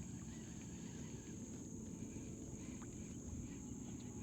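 Faint marsh ambience: a steady high-pitched insect drone over a low rumble of wind, with a few faint ticks.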